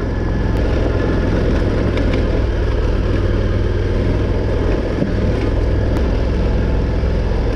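Adventure motorcycle engine running steadily as the bike climbs a loose, rocky dirt trail, with a dense low rumble.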